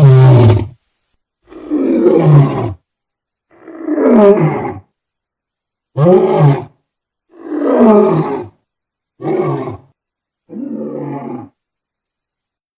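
Lion roaring in a bout of seven deep calls, each about a second long and falling in pitch, coming roughly every one and a half seconds; the last calls are shorter and the final one quieter.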